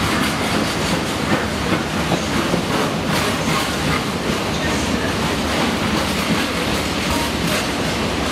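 Empty bogie freight wagons rolling past, with a steady wheel-on-rail rumble and a scatter of clicks as the wheels cross rail joints.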